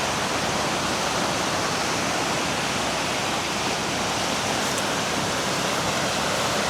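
Steady rush of fast-flowing floodwater, a river running far above its normal high-water mark.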